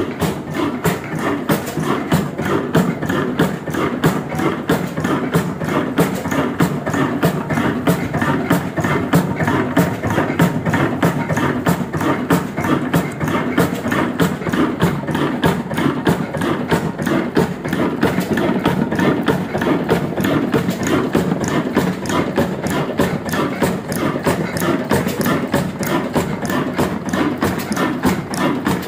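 Vintage Ruston Hornsby black diesel engine running steadily at work with a fast, even knocking beat.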